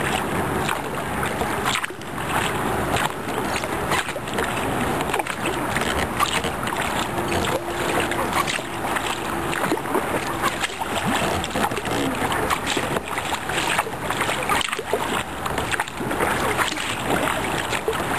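Fast river current rushing and splashing around a kayak, with the irregular splash of paddle strokes.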